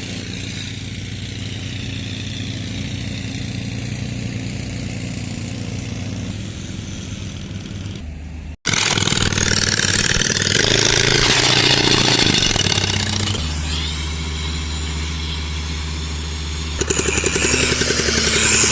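Motor engines running steadily, in several cut-together stretches. The middle stretch is louder, with a strong hiss, and a rapid pulsing rattle comes in near the end.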